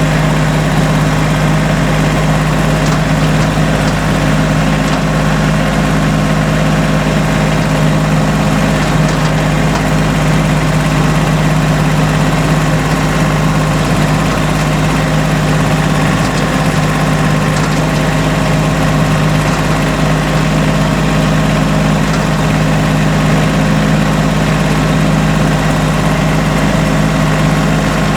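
Tractor engine running at a steady speed, a constant low drone with a slight shift in its tone about nine seconds in and again near eighteen seconds.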